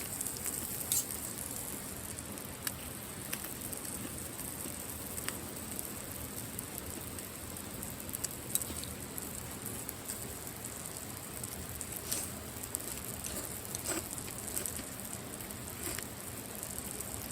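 Steady rain falling, an even hiss with scattered sharp ticks of single drops a few seconds apart.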